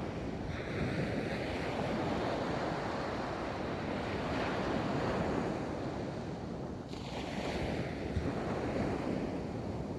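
Ocean waves rolling onto a beach: continuous surf that swells and ebbs, with a breaking wash building about half a second in and another around seven seconds in, and some wind on the microphone.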